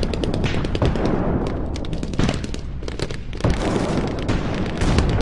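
Airsoft gunfire: many sharp clicking shots in irregular bursts over a steady low rumble, easing off a little past the middle and picking up again near the end.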